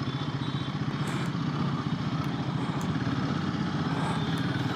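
Royal Enfield Himalayan 450's single-cylinder engine running steadily at low revs, with an even rapid pulse.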